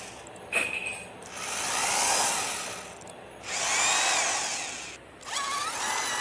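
Electric drill whirring in repeated bursts of about two seconds each, the pitch rising and falling within each burst.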